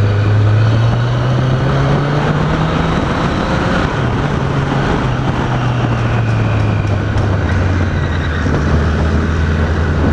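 Motorcycle engine running on the road under a steady rush of wind and road noise. The engine note rises over the first couple of seconds, then eases back down and holds steady.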